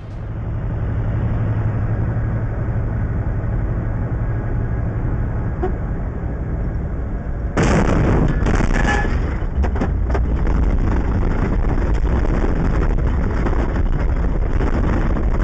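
Dashcam recording of a vehicle on the road: steady engine and road rumble. About seven and a half seconds in, a sudden louder burst of noise lasts a second or two, then the rumble carries on.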